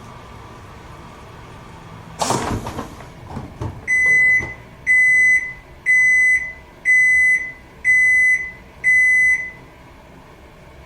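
Toshiba AW-42SEE4 fully automatic washing machine: a short mechanical clunk about two seconds in, then six high electronic beeps about one a second, the signal that the wash cycle has finished.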